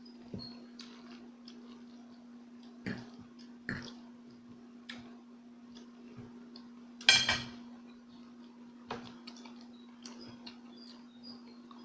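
Eating sounds at close range: scattered short clicks of utensils and chewing, with one louder, sharper noisy burst about seven seconds in, over a steady low hum.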